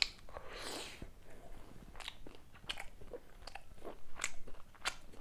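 Close-miked chewing of a mouthful of chicken taco: a crunchy bite about half a second in, then irregular sharp mouth clicks as it is chewed.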